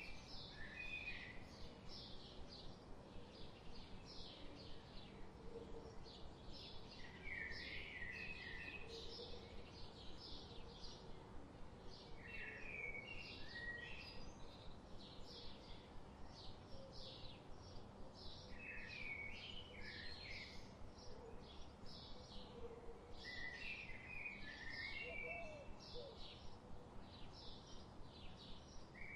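Birds singing in a forest. One bird repeats a short warbled phrase about every six seconds, over a steady run of high, quick chirps, two or three a second.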